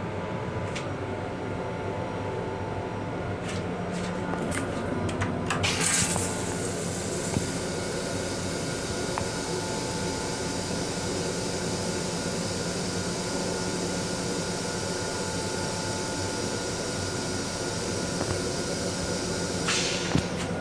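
Steady hum and running noise inside an M7 railcar restroom. A loud hiss rises about five seconds in and then settles into a steady rushing hiss that runs on.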